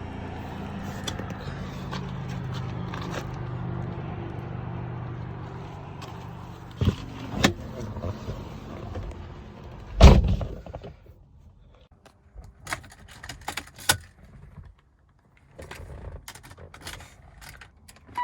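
Electric motor of a BMW E36 M3's driver power seat running for about ten seconds as the seat is adjusted. A loud thunk follows, then scattered light clicks and rattles.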